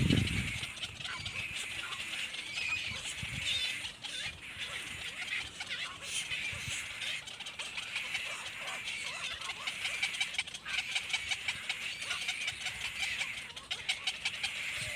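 Baby birds chirping continuously in rapid, high-pitched cheeps, with a low thump right at the start.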